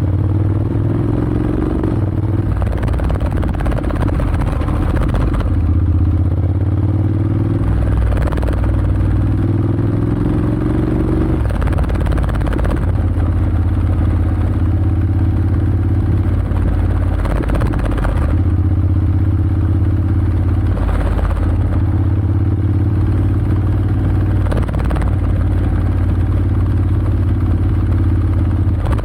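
Honda X-ADV's 745 cc parallel-twin engine running through an SC-Project SC-1R slip-on exhaust with the dB killer fitted. The bike is under way: the engine note climbs gently, then steps down at each gear change, several times over.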